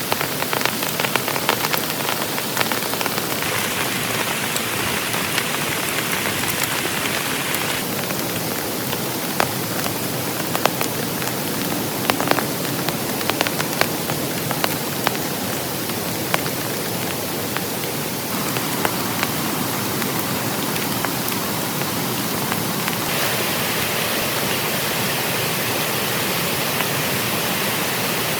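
Heavy rain falling steadily, with many sharp individual drop hits ticking through the hiss. The character of the hiss changes abruptly a few times.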